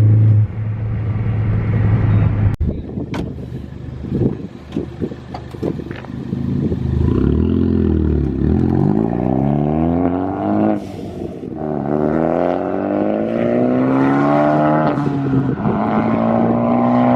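Straight-piped Ford Focus ST accelerating hard through the gears, its exhaust note climbing in pitch, dropping at a gear shift about 11 s in, climbing again, then easing to a steady run near the end.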